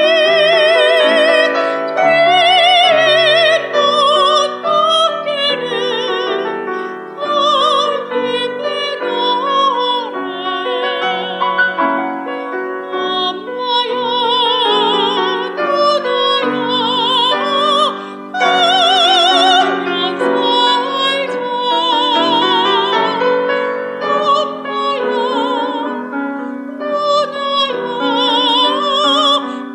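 A soprano sings in classical style with piano accompaniment, with a wide vibrato on her held notes.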